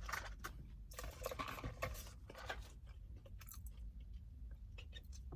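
Close chewing of a breaded, fried jalapeño popper: a run of irregular soft crunches and wet mouth clicks.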